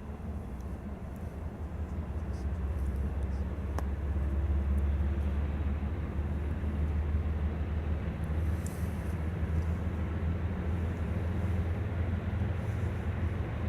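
Steady low rumble of a passing diesel freight train, growing louder about three to four seconds in and then holding.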